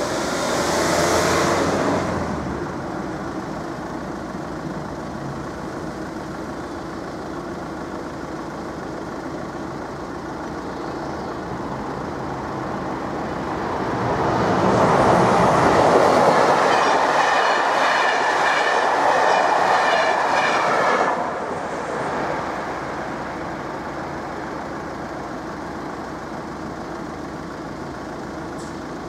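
A VW Caddy van drives past in the first two seconds, then the level crossing's warning bell rings steadily. About halfway through, an electric intercity passenger train passes over the crossing: a rush of wheel-on-rail noise with a rapid clicking builds, holds for several seconds, and drops off sharply.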